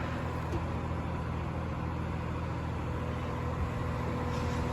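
Cat 352 excavator's diesel engine running steadily as the machine manoeuvres, an even low rumble, with a faint steady whine joining about three seconds in.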